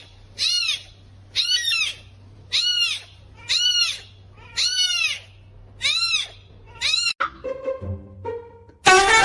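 A bird calls over and over, about one loud call a second, each rising and then falling in pitch. After about seven seconds the calls stop and music takes over.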